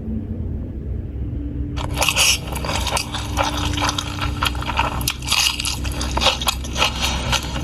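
Close-miked mukbang eating: loud, irregular crunching and chewing of food that starts about two seconds in, over a low steady hum.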